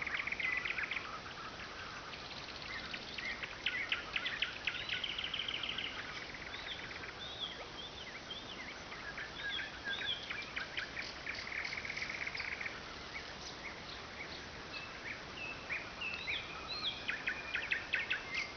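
Nightingale singing: a continuous string of varied phrases, with rapid clicking rattles, fast trills and looping whistled notes following one another without a break.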